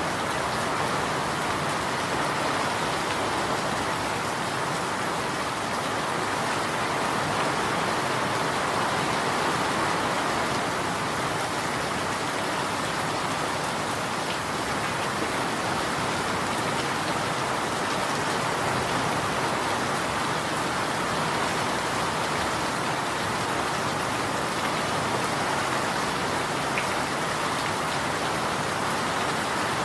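Steady rain falling and pattering on surfaces, an even wash of noise with faint scattered drop ticks.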